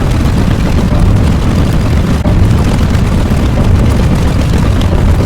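A loud, continuous low rumble, heaviest in the bass, running without a break.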